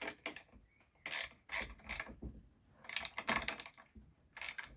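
Freshly refitted chain and drive sprocket of a small Poulan Micro chainsaw, moved by hand in short ratcheting bursts of clicks, a check that the chain, loosened from too tight, now runs with the gear.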